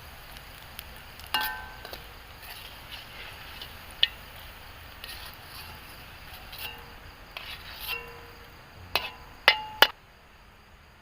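Cooking utensils clinking against cookware while a sambal is prepared: a few sharp clinks with a brief metallic ring, spread out, then a quick group of three near the end. A faint steady hiss underneath stops about a second before the end.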